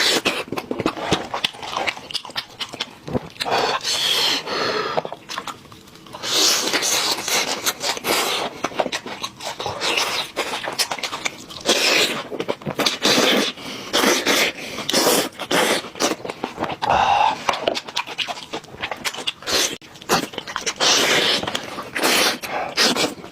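Chewing and crunching on a goat head: many quick cracks and wet clicks, broken by heavy, panting breaths every few seconds.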